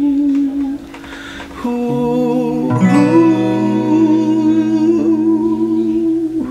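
Closing bars of a song: acoustic guitar chords under a long held, wavering sung or hummed note. There is a short dip about a second in before the last chord comes in and is held to the end.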